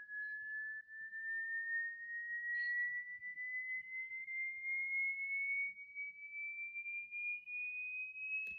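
An electronic sine-wave test tone, a frequency sweep rising slowly and steadily in pitch from a high whistle-like note.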